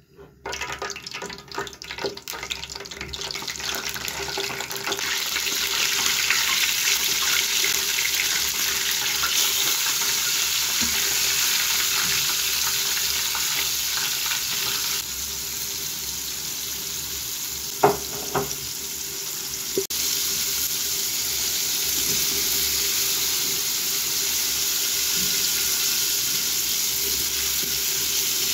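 Flour-coated pieces of deer meat frying in hot oil: crackling starts right away and builds within about five seconds into a loud, steady sizzle. A couple of sharp knocks sound about two-thirds of the way through.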